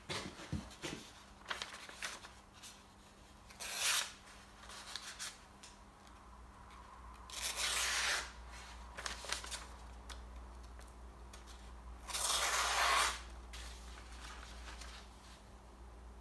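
A wood carving knife scraping as it cuts into wood, in three separate slow strokes, with small clicks and taps between them.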